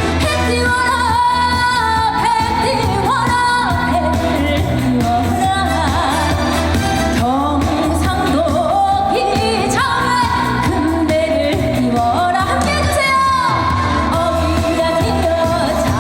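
Woman singing a Korean trot song live over loud amplified backing music with a steady bass line, her melody bending and holding long notes.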